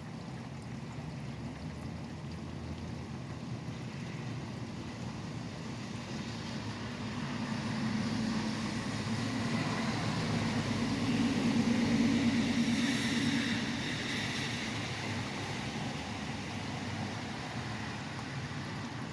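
Steady rain beside a highway, with a vehicle passing on the wet road: its tyre hiss and engine hum swell from about a third of the way in, peak just past the middle and fade away.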